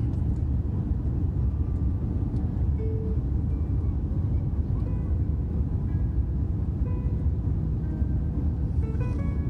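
Steady low rumble inside an Airbus A350-900's passenger cabin in flight: airflow and engine noise during the descent, with faint short high tones here and there.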